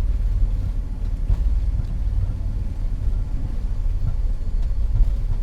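Steady low rumble in the cockpit of an Avro RJ100 airliner rolling out after landing, its turbofans at ground idle and its wheels running on the runway, with a few faint ticks.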